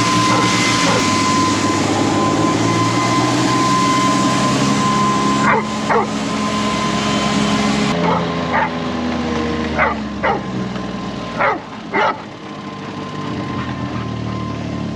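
A dog barking, short barks singly or in pairs from about a third of the way in, over a vehicle engine running steadily. A steady high-pitched tone runs under the engine for the first half.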